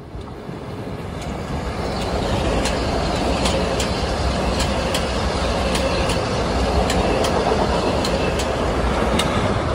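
Metro-North Harlem Line electric commuter train passing close by at speed, a steady rush of wheel and rail noise that builds over the first two seconds and then holds. Sharp wheel clicks over rail joints come two or three times a second.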